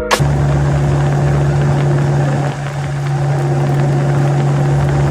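Polaris Slingshot engine running at a steady, unchanging pitch, with a constant hiss of rushing air and road noise over it; the sound dips briefly about halfway through.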